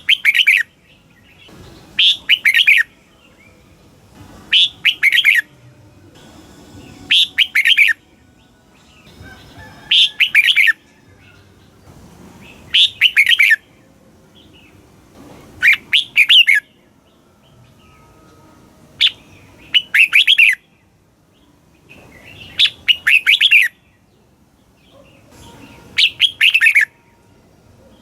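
Red-whiskered bulbul singing: short, quick phrases of a few bright notes, repeated about every two and a half to three seconds.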